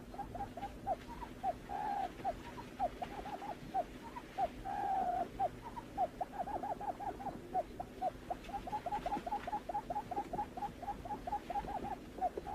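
Barred buttonquail calling: a rapid, continuous run of short hooting notes, several a second, broken by a few longer wavering notes. A steady low hum runs underneath.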